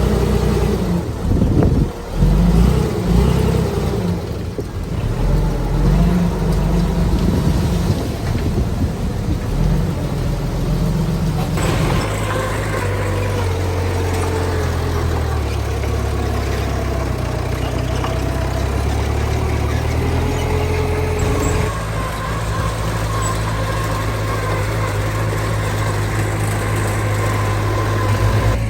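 Diesel engines of heavy earthmoving machinery, a dump truck and a bulldozer, running steadily. The engine note changes about twelve seconds in and again a little after twenty seconds, with a fainter wavering whine above it.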